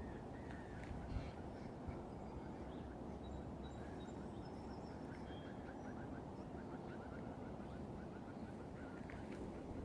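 Birds calling: a quick run of short repeated notes lasting a few seconds in the middle, with a few thin high whistles, over a steady low background hiss.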